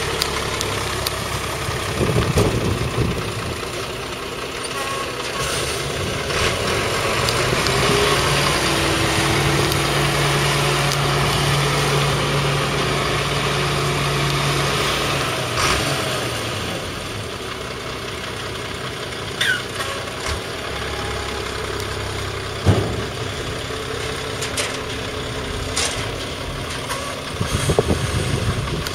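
Scania 93M 220 dump truck's diesel engine running while its load of gravel slides out of the tipping body. A rushing of gravel and a stronger engine tone hold for several seconds in the first half. The engine then settles back to idle, with a few separate knocks.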